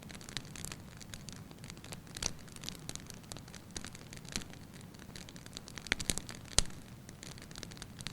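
Burning logs crackling: irregular sharp pops and snaps over a low steady rush of flame, with two louder pops about six seconds in.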